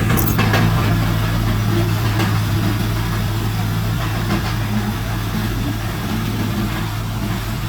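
Heavy diesel earthmoving machine engine running steadily with a low even hum, and a few rattles or knocks in the first couple of seconds.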